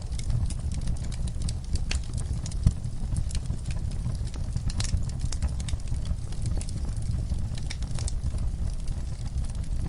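Wood fire crackling in a fireplace: irregular sharp pops and snaps over a low rumble, with one louder pop about three seconds in.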